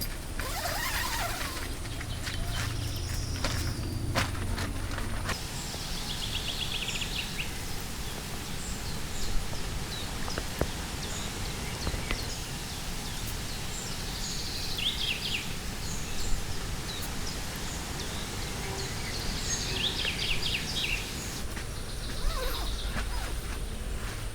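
A bird singing a short, quick trilled phrase three times, several seconds apart, over steady outdoor background noise. A low hum runs under the first five seconds or so.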